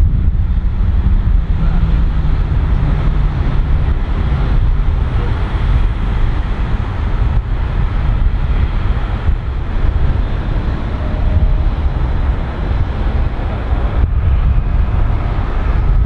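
Steady low rumble of a Boeing 787-8 Dreamliner's jet engines, mixed with wind buffeting the microphone.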